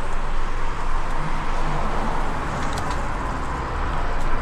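Road traffic noise heard from a moving e-bike on a city street: a steady rush with a low rumble.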